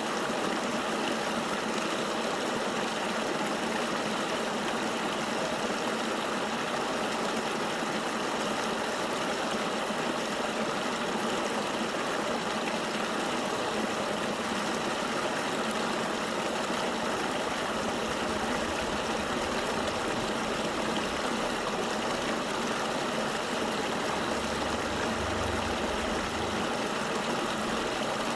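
Flowing river water in a steady, unchanging rush. A faint low rumble joins in during the second half.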